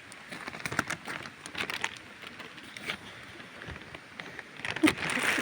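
Irregular rustling and crackling of leaves and twigs in jungle undergrowth, scattered small snaps with a louder one near the end.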